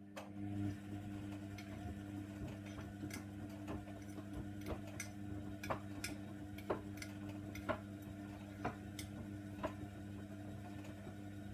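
Hoover Nextra washer dryer's drum motor running a single tumble of the wash: a steady hum that starts and stops suddenly, with a sharp tap about once a second as something hard in the load knocks against the drum as it turns.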